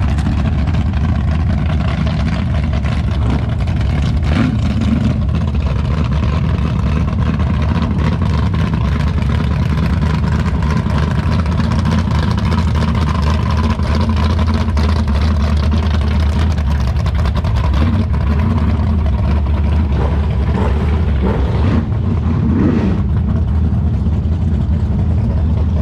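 A car engine idling steadily, a loud, even low sound with no revving.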